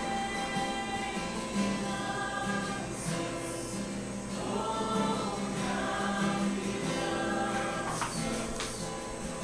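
Choral music: a choir singing held chords, with the notes changing every second or so.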